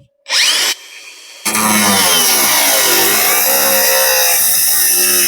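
Cut-off wheel tool spinning up briefly, then running continuously from about a second and a half in as it cuts through the car's sheet-steel body panel. Its whine sags in pitch under load about three seconds in and then recovers.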